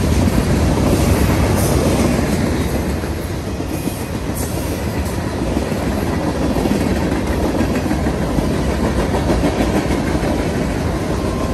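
Freight cars of a passing CSX freight train rolling by, with a loud, steady rumble of steel wheels on the rails.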